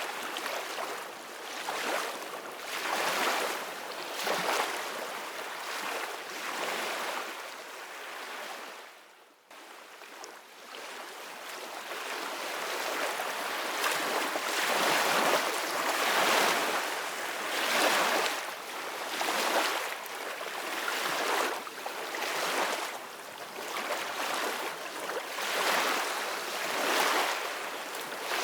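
Ocean waves breaking and washing in, with swells of surf noise coming about every two seconds. The sound drops away briefly about nine seconds in.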